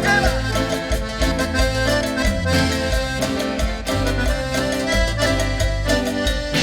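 Live Chilean cumbia ranchera band playing an instrumental passage: accordion carrying the melody over bass and a steady drum beat, with no singing.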